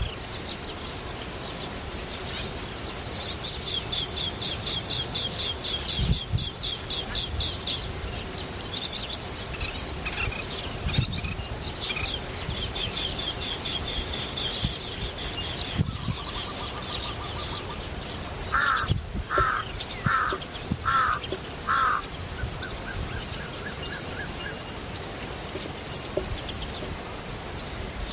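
Wild birds calling: rapid high-pitched trills in the first half, then about two-thirds of the way in a run of about five louder, lower calls, followed by a briefer held call.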